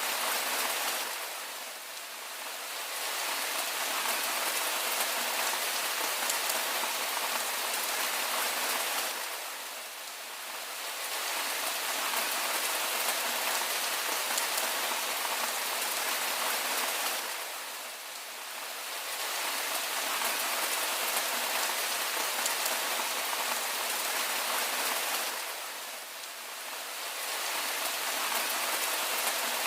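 Steady rain falling, a continuous hiss of drops that eases briefly about every eight seconds.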